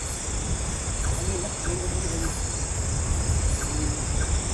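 Night forest ambience: wind rumbling and buffeting the microphone under a steady high chorus of insects, with a few faint short low calls from an animal about a second in and again near the end.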